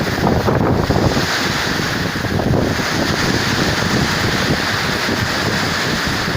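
Storm-force wind, about 30–35 m/s, buffeting the microphone: a loud, unbroken rush with a gusty, rumbling low end.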